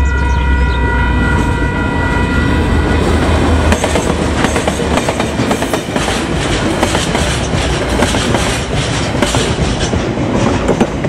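Freight train passing close by: a deep diesel locomotive rumble and a steady chord of high tones that stop about three to four seconds in, then the wheels of a long string of tank-container wagons clattering rapidly over the rails.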